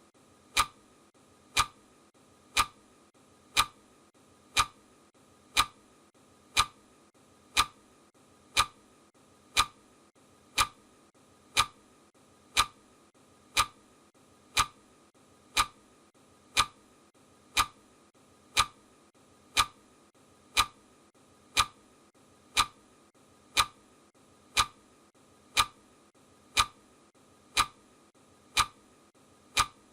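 Steady ticking, one sharp tick each second, evenly spaced, over a faint hiss.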